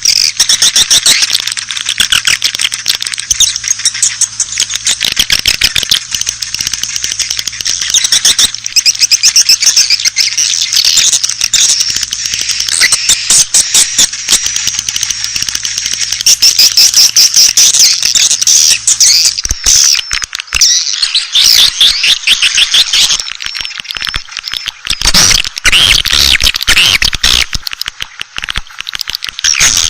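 A dense, unbroken chatter of many rapid high-pitched chirps and trills from a flock of swiftlets. It is a swiftlet lure call, played to draw swiftlets in to nest.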